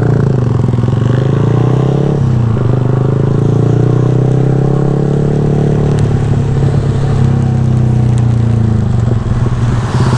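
Yamaha R15 V3's single-cylinder engine through a Daytona full-system exhaust, running at steady revs while riding. It dips briefly about two seconds in, then holds even again.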